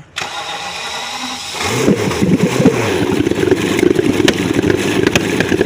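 BMW N73 6.0-litre V12 engine of an E66 7 Series running, being checked for a misfire. It grows louder about a second and a half in, then keeps a dense, rapid pulsing with scattered sharp ticks.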